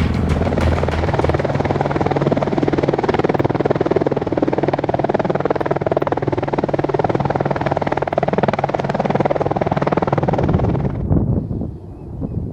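AH-64 Apache helicopter flying, a steady rotor and turbine drone with a fast pulsing beat. It cuts off abruptly shortly before the end, leaving a quieter, duller rumble.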